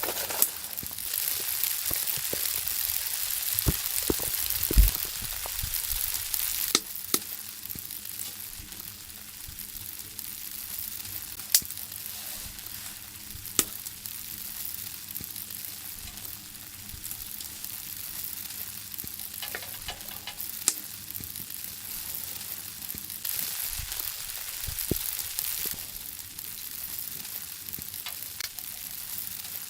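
Food frying in a pan: a steady sizzling hiss with scattered sharp pops and clicks, a little louder in the first several seconds.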